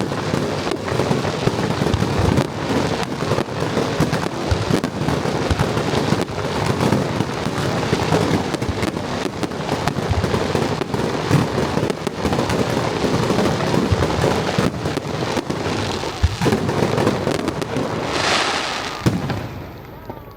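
Dense fireworks barrage: many overlapping booms and crackling bursts, with a bright hissing crackle about eighteen seconds in, then the noise dies down near the end.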